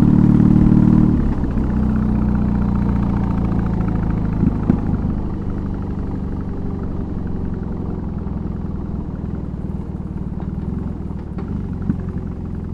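BMW R18's big boxer twin with a custom exhaust running steadily. It is loud at first, then drops about a second in to a lower, even rumble that eases off a little more, with a couple of short sharp clicks in the middle.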